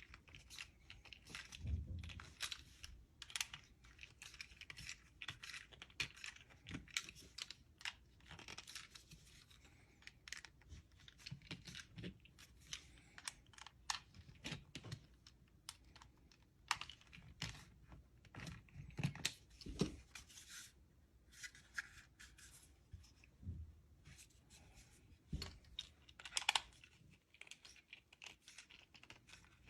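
Faint, irregular small clicks and light scraping of a hand screwdriver turning Torx screws into the housing of a Heiniger Saphir clipper, with the parts knocking lightly as they are handled.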